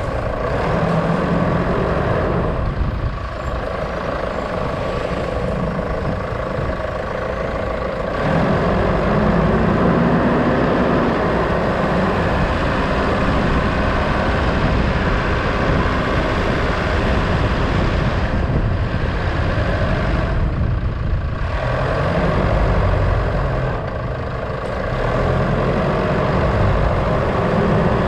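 Motor vehicle engine running with road noise while driving, a little louder from about eight seconds in.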